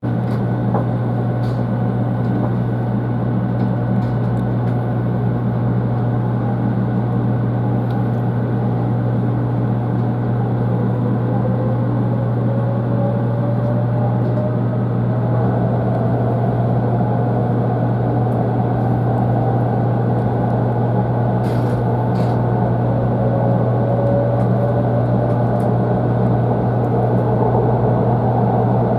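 Cabin noise of a 500 series Shinkansen train: a steady low rumble and hum, with a traction motor whine that rises in pitch about ten seconds in and again near the end as the train gathers speed. A couple of brief clicks come a little past the middle.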